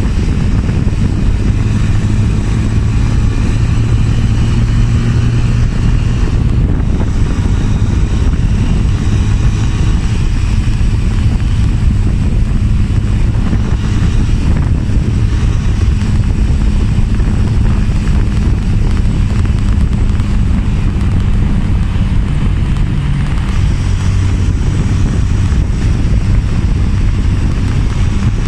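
Motorcycle engine running steadily under way, with a loud, constant low rumble of wind and road noise over the microphone.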